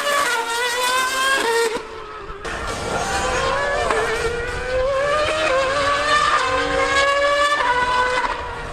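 Racing engine at full throttle, its pitch climbing and falling back at each gear change, with a short lift in volume about two seconds in.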